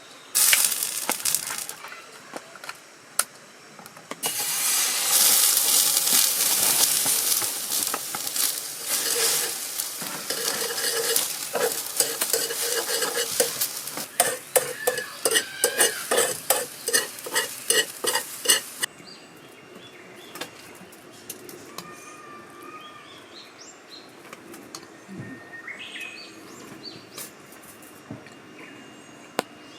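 Food sizzling in a frying pan while a metal utensil stirs and scrapes against the pan with rapid clinks. The sizzling stops suddenly about two-thirds of the way through.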